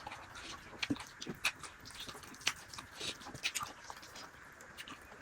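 Close-up eating sounds: chewing with short wet smacks and clicks scattered irregularly.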